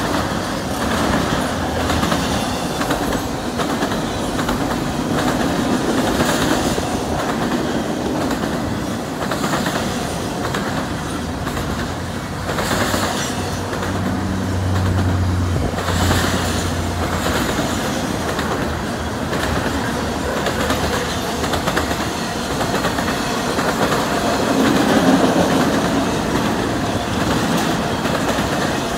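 Double-stacked container well cars of a CN intermodal freight train rolling past: a steady rumble of steel wheels on rail, with repeated clicks over the rail joints. A low hum swells briefly around the middle.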